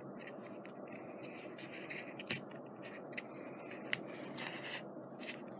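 Light scratching, rubbing and a few small sharp clicks of hand crafting on paper, as tweezers and fingers place adhesive pearls on a scrapbook page, over a steady faint background hiss.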